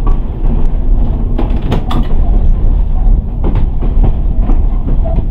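Heritage streetcar running on track: a steady low rumble, with several sharp knocks and clicks from the wheels over the rail.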